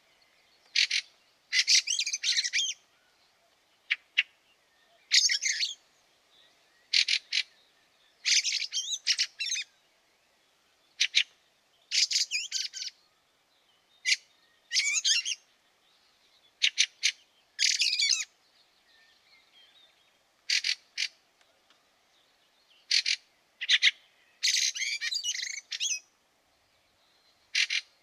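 Fieldfares calling: short, harsh chattering bursts, some single and some in quick runs, repeated every second or two.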